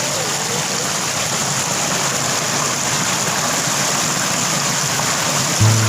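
Steady rushing of a large waterfall's water. A low steady hum comes in near the end.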